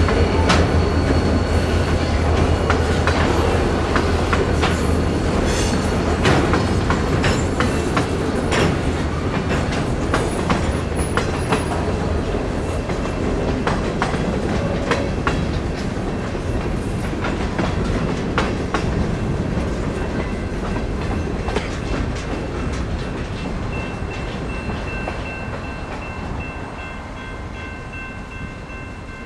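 Freight train passing over a grade crossing: the diesel of the trailing EMD GP40-2 locomotive is heard at first, then the clickety-clack and rattle of boxcar wheels over the rail joints, fading as the train clears. A steady high tone comes in near the end.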